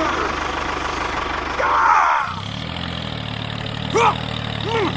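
An engine idling steadily with a low hum, coming in about two seconds in. It follows a short gliding sound, and two brief chirps fall near the end.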